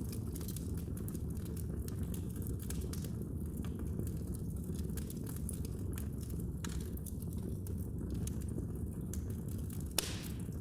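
Wood fire burning in a fireplace: a steady low rumble of flames under frequent small, sharp crackles and pops, with one louder pop near the end.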